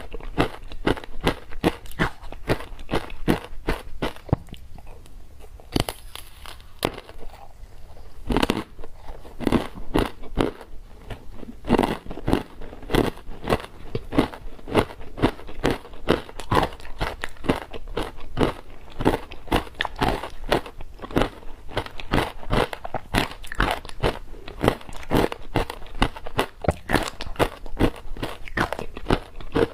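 Ice with matcha being bitten and chewed close to the microphone: rapid, irregular crunching and cracking, thinning out for a few seconds before a sharp, loud crunch about eight seconds in, then dense crunching again.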